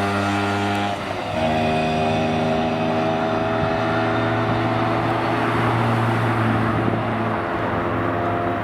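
Car engine running at steady revs, with a short break about a second in before it settles back onto a steady note.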